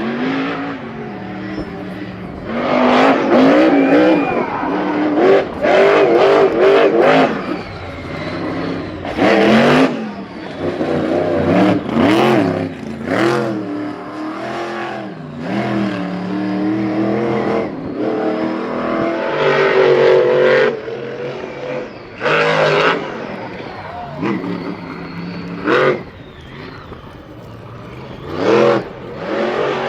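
Racing vehicle engines revving hard and easing off again and again, the pitch climbing and falling, with several short loud peaks of full throttle.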